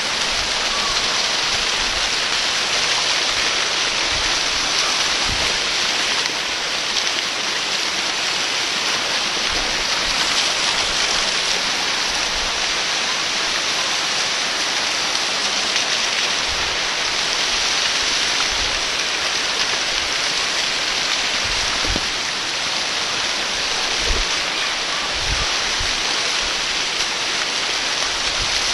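Waterfall: the steady, unbroken rush of falling water, with a few brief low thumps toward the end.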